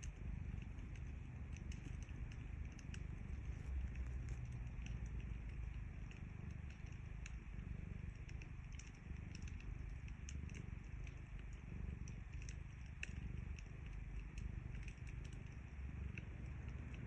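Cat purring steadily, a low pulsing purr, with a fire crackling over it in scattered small pops.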